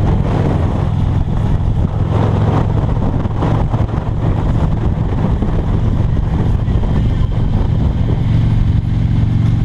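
Motor vehicle engine running steadily at road speed under a rush of wind and road noise, its low drone firming up near the end.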